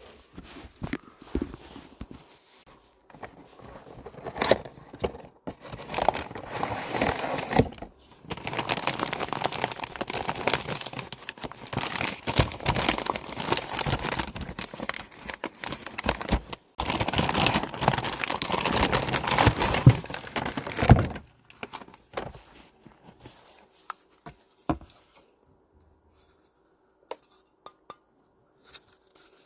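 Packaging being torn open and crinkled by hand: scratchy tearing and rustling that runs continuously for about thirteen seconds, with a brief break partway through, then settles into scattered small clicks and taps.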